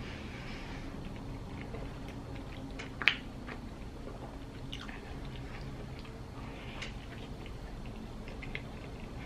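A person chewing a large mouthful of a filled bread sandwich, with small wet mouth clicks scattered throughout and one sharp click about three seconds in. A low steady hum of room tone lies underneath.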